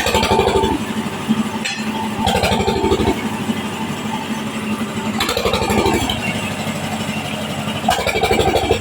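Engine-driven wood saw running steadily and cutting waru wood, with four short, louder bursts about every two and a half seconds as the blade bites into the timber.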